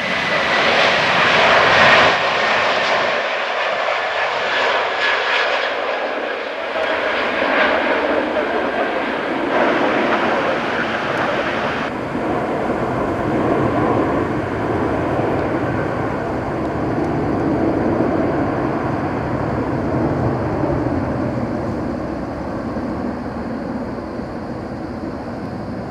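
Airbus A330-200 jet engines at takeoff power: a loud roar with a whine falling in pitch in the first couple of seconds as the airliner passes, then a broad rumble that settles lower and slowly recedes as it climbs away.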